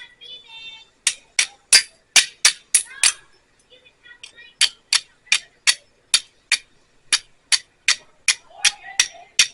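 Steel striker scraping down a piece of flint again and again to throw sparks onto tinder. It makes a fast run of sharp metallic clicks, about three strikes a second, with a short pause partway through.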